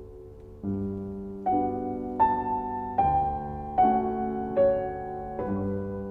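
Slow background piano music: notes and chords struck about every three-quarters of a second and left to ring over a low bass.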